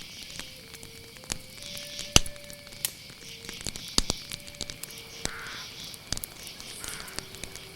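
Campfire crackling with irregular sharp pops over a steady chorus of crickets, with soft, slow music notes held and changing pitch underneath.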